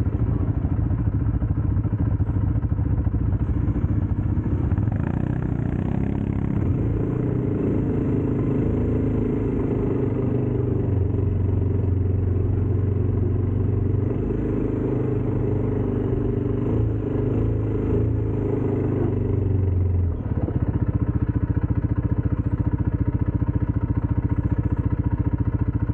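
ATV engine running steadily, working harder through the middle stretch, then easing back to a lower, steadier note about twenty seconds in.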